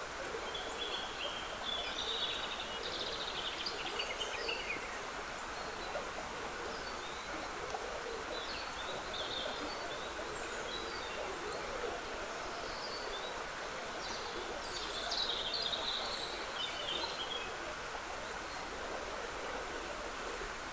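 Steady trickling of a woodland stream, with songbirds singing in short high phrases every few seconds over it.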